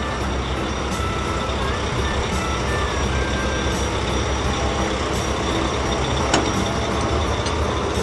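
Cement mixer truck engine running steadily as the truck drives, a dense rumble with a single short click a little past six seconds in.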